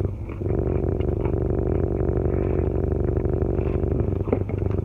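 Steady low hum of a car running, heard from inside the cabin, with a few soft clicks near the end.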